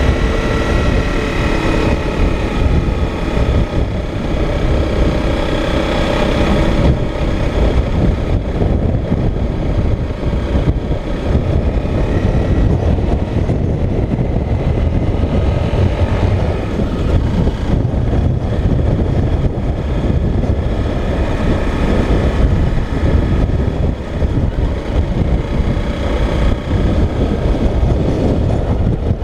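Motorcycle engine running under way, its note rising and falling at times, over heavy wind rumble on the microphone.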